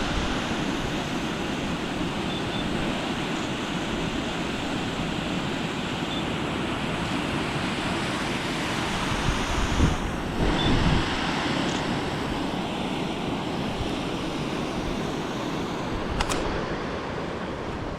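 Waterfall on a moorland beck swollen with rain, water pouring over rocks as a steady rushing hiss. Wind buffets the microphone in low gusts around the middle.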